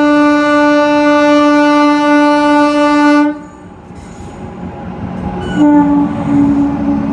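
Indian Railways locomotive horn sounding one long, steady blast of about three seconds that cuts off sharply, followed by the rush of a train and, near the end, a second horn blast starting up.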